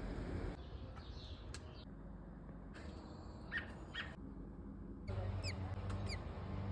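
Bird chirps: a few short, high peeps in the middle, then two quick falling chirps near the end.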